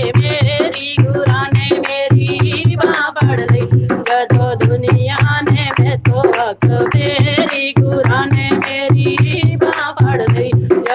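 Punjabi devotional bhajan: a singing voice with melodic accompaniment over a steady, evenly repeating drum beat.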